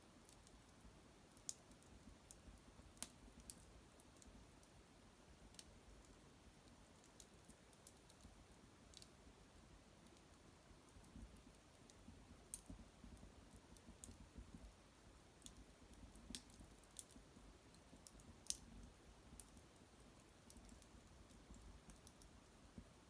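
Small wood fire crackling quietly: sparse sharp pops and ticks at irregular intervals, a few of them louder.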